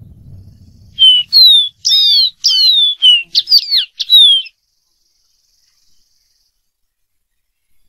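Dark-throated seedeater singing one phrase of about eight clear whistled notes, most of them slurring downward, starting about a second in and lasting about three and a half seconds.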